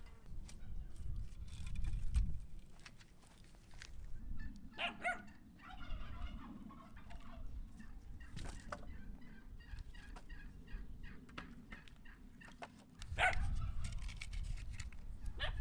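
Domestic fowl calling a few times, the loudest calls about five and thirteen seconds in, over a low rumbling noise.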